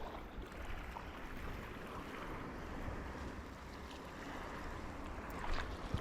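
Sea water lapping and sloshing in a steady wash, with a low wind rumble on the microphone.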